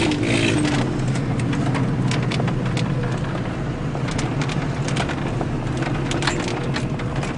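Off-road vehicle engine running steadily, with many sharp knocks and clatters over it.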